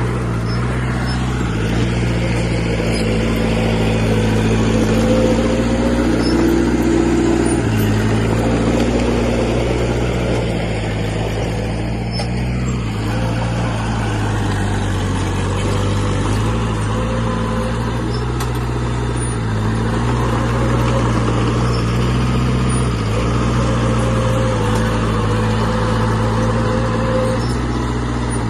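Diesel engine of heavy earthmoving machinery running steadily under load, its note shifting up and down a few times as the load or throttle changes.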